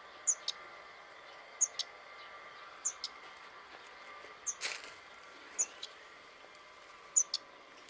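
A small bird giving short, high chirps about once every second or so, one louder near the middle, over a faint steady hum. The 'strange noise' heard at the gas pressure regulator is this bird sitting inside its housing.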